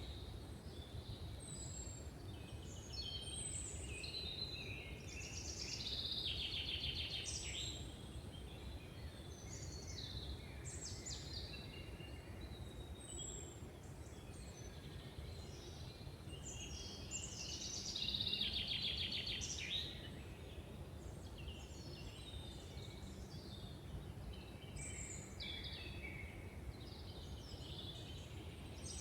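Several woodland birds singing and calling, overlapping short chirps and whistles with rapid trills, the loudest about a quarter of the way in and again past the middle, over a steady low background rumble.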